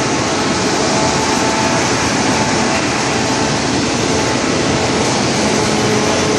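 Industrial wood chipper running steadily: a loud, even mechanical noise with a few faint steady hums in it.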